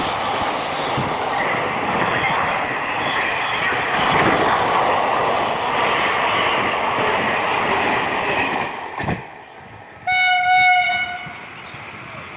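Passenger train running, with steady rushing and rattling noise that drops away suddenly about nine seconds in. A train horn then sounds once, one steady blast of about a second near the end.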